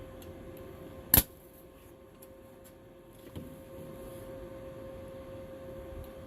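Welder humming steadily, with one sharp snap about a second in and a softer one a couple of seconds later: the arc striking briefly without a clean connection.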